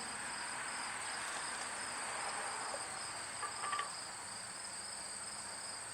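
Crickets chirring steadily in a high, unbroken drone.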